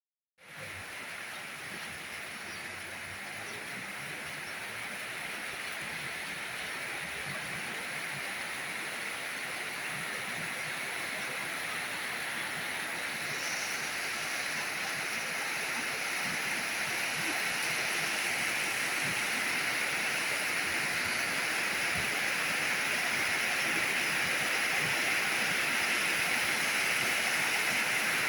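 Steady rain falling: an even, continuous hiss that grows slowly louder.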